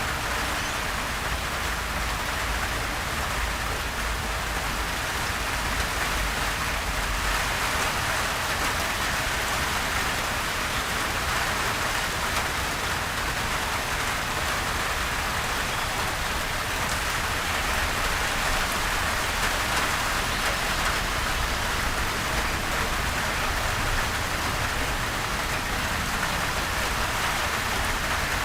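Steady, gentle rain falling on surfaces: an even hiss of drops with no thunder.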